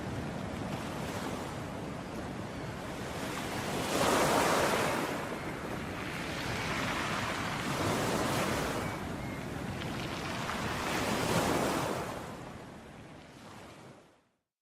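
Sea waves washing onto a shore, with three swells rising and falling about every three to four seconds. The sound fades away to silence near the end.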